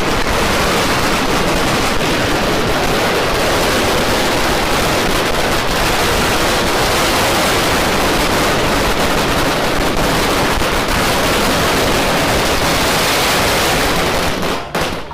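A beehive rack of bottle rockets being set off: a dense, unbroken barrage of countless overlapping cracks and whooshes that merge into one steady rush of noise, cutting off abruptly near the end.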